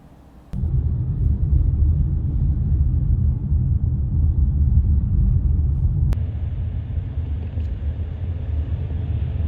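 Low, steady rumble of a moving vehicle, starting suddenly about half a second in, with a click about six seconds in.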